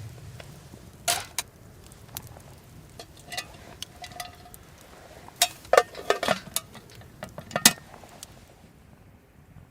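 Metal camp cookware and utensils clinking and knocking together in an irregular series, with one short ringing note about four seconds in and the loudest knocks in the second half.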